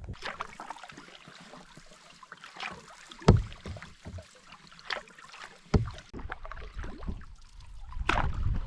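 Canoe being paddled: paddle strokes dipping and splashing in the water, with two sharp knocks about three and six seconds in. A low rumble builds near the end.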